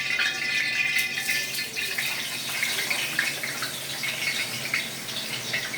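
Hot cooking oil sizzling and crackling in a pan as French fries fry, a dense hiss full of quick pops.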